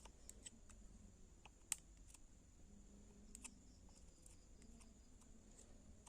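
Faint, scattered light clicks and ticks of small lamp parts and wires being handled, with one sharper click a little under two seconds in.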